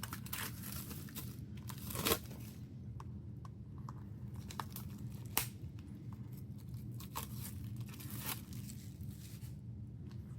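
Plastic shrink wrap being torn and peeled off a CD album package, crinkling in bursts with sharp snaps and clicks between, in a small room.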